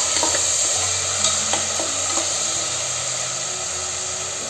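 Chopped tomato and whole spices sizzling in hot oil in a pot, stirred with a metal spatula. A few taps and scrapes of the spatula against the pot come in the first half.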